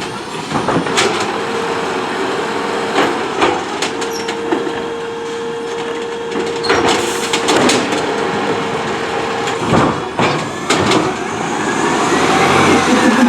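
Autocar ACX garbage truck at work: a steady whine held for several seconds, with repeated sharp knocks and clanks throughout, and a tone that rises and falls near the end.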